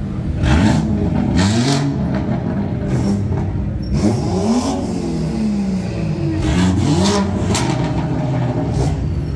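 A car engine being revved hard several times, its pitch climbing and dropping back with each rev, with a few sharp cracks in between.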